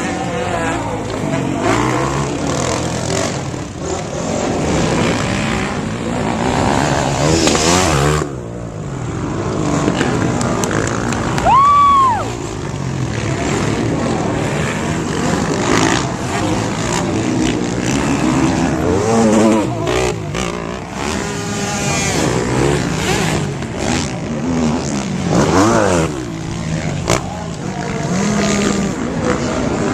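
Motocross bike engines racing around a dirt track, several at once, revving up and dropping off as they pass, jump and corner. A brief high tone rises and falls about twelve seconds in.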